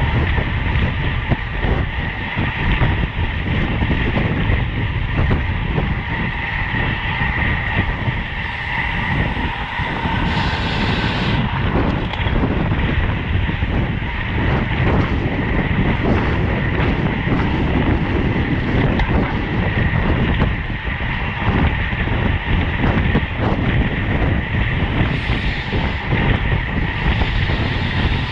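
Wind rushing over the microphone of a camera on a road bike at race speed, with steady tyre and drivetrain noise underneath.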